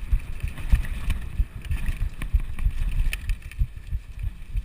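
Mountain bike riding over rough trail: a steady run of irregular low thumps and rattles as the bike and camera are jolted, with a few sharper clicks and light wind noise on the microphone.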